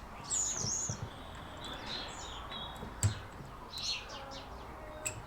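Small birds chirping and singing in quick repeated high notes, with a sharp click about three seconds in and a fainter one near the end.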